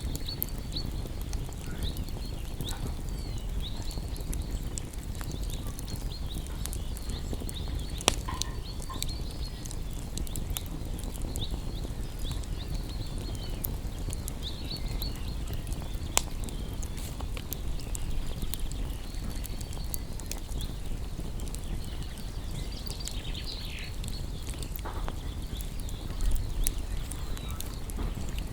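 Wood campfire crackling steadily over a low rumble of flames, with scattered small crackles and a few sharper pops, the loudest about eight seconds in, sixteen seconds in, and a short burst of pops near the end.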